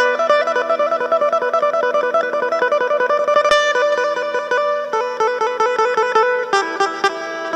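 Isan phin, a plucked Thai lute, playing a quick run of plucked notes over a steady low drone string.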